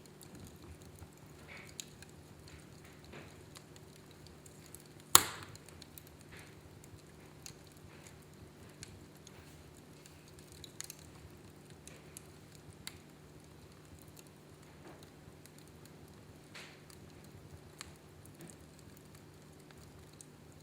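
Wood fire in a fireplace crackling, with scattered small pops and one sharp, loud crack about five seconds in.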